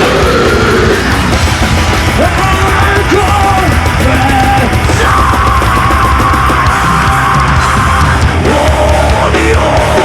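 Nu metal band playing live and loud: distorted guitars, bass and drums, with long held melodic lines over the top, the longest from about halfway through to near the end.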